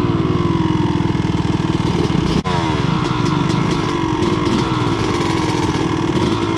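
Two-stroke dirt bike engine running close to the microphone at low trail-riding revs, its pitch falling and picking up again with the throttle, with a brief dip and click about two and a half seconds in. It is being ridden slowly, the kind of going the rider worries will foul the spark plug with oil.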